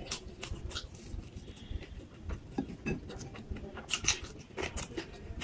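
Close-miked chewing of a crispy fried samosa: a steady run of irregular crunches and wet mouth clicks, with a louder cluster of crunches about four seconds in as another bite is taken.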